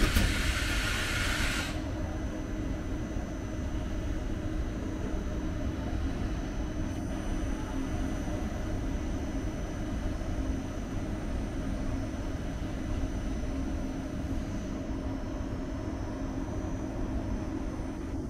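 Train at a station platform running with a steady low rumble and hum. A short, loud hiss sounds right at the start.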